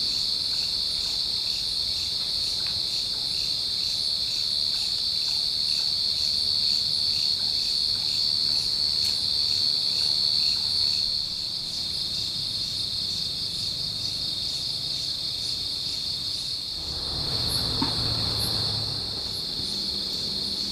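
Chorus of forest insects trilling steadily at a high pitch, with a fast pulsing texture. A brief rustling noise comes near the end.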